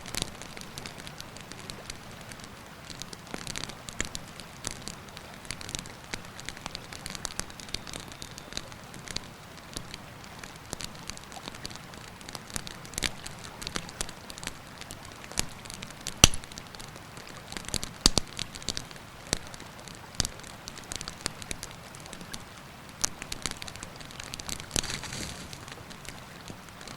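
Wood campfire crackling, with frequent sharp pops of varying strength, the loudest about sixteen seconds in, over the steady rush of a river.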